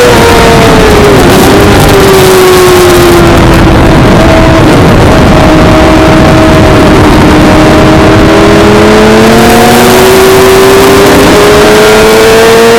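Suzuki GSX-R600 inline-four racing engine at high revs, heard onboard over heavy wind rush. The engine note falls over the first few seconds as the bike slows, holds low, then climbs steadily through the rest as it accelerates.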